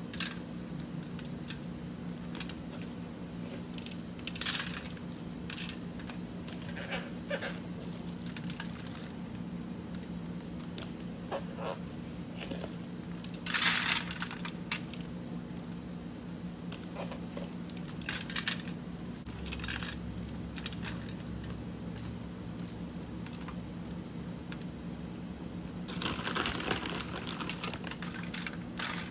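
Kitchen handling sounds: scattered clicks and clinks with crinkling and rustling, including two louder rustling stretches about 14 seconds in and near the end, over a steady low hum.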